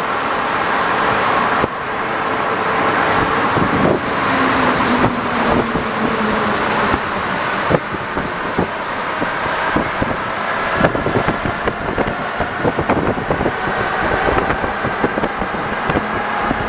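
Rubber-tyred Alstom NS-74 metro train running along the track, a steady rolling rumble with frequent short knocks and a brief falling whine about four seconds in.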